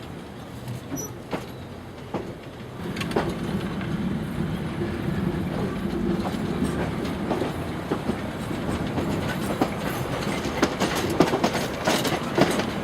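Heritage passenger train getting under way: the carriage rumbles and its wheels clack and knock over the rail joints. It grows louder about three seconds in as the train gathers speed.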